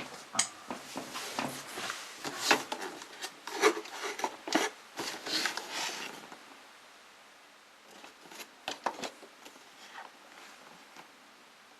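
Small toys being handled by hand: rubbing, scraping and small clicks, busy for about six seconds, then quieter with a few sharp clicks near the end.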